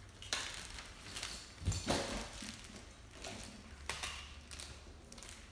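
A few scattered knocks and clacks of kitchen items being handled, the loudest a pair of knocks about two seconds in.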